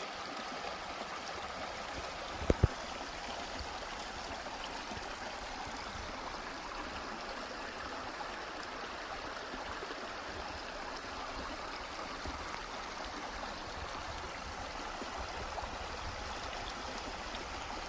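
Steady rushing of flowing water, like a stream running after rain. Two brief low thumps about two and a half seconds in.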